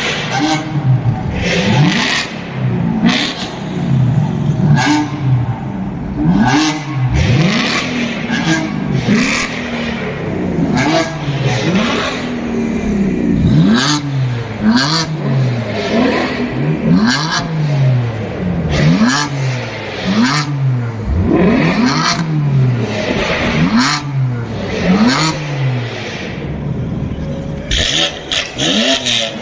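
Sports car engine revved again and again, the pitch climbing quickly and falling back about once a second or so, with sharp cracks and pops from the exhaust.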